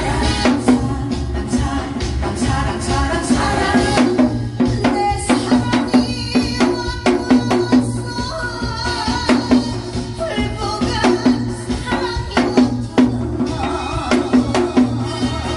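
Janggu, the Korean hourglass drum, struck in quick sharp strokes in gogo janggu style over a recorded trot backing track with a steady beat.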